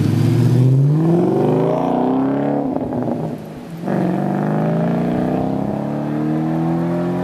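2011 Audi S5's V8 with an aftermarket non-resonated exhaust and downpipes, accelerating hard: the engine note climbs through one gear, goes briefly quieter for a gear change about three and a half seconds in, then climbs again more slowly in the next gear.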